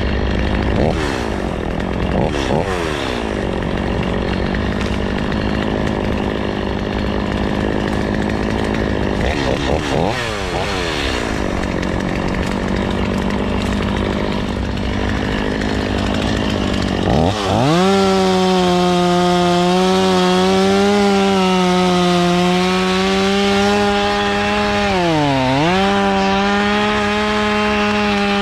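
Chainsaw revved briefly a few times, each rev falling away. About 17 seconds in it opens to full throttle and holds there, cutting into a big tree to fell it, with a brief dip in revs near the end.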